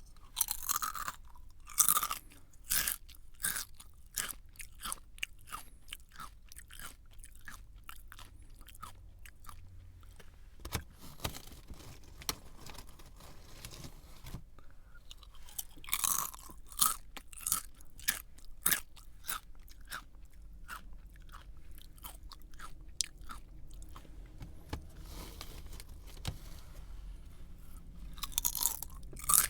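Close-miked eating sounds: a person biting into and chewing a hard, crunchy snack. Louder bites come about a second in, around halfway and near the end, with a steady run of smaller chewing crunches in between.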